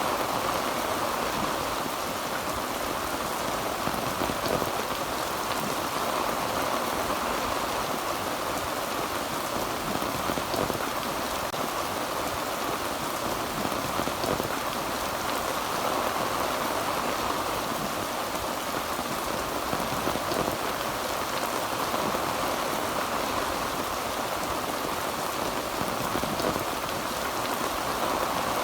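Heavy rain drumming steadily on a tin roof, a dense even patter of drops.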